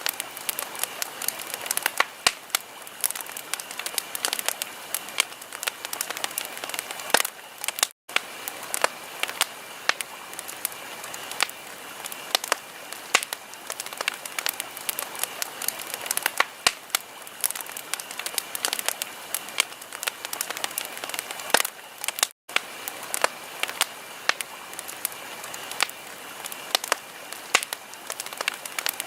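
Wood fire crackling in a fireplace: a steady hiss of burning with frequent sharp pops and snaps. The sound cuts out completely for a split second twice, about 8 and 22 seconds in.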